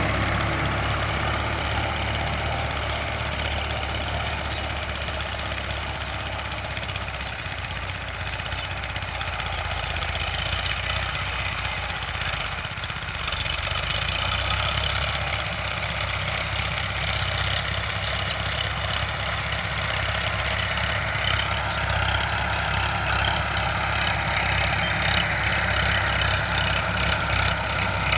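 Sonalika DI 745 tractor's diesel engine running steadily.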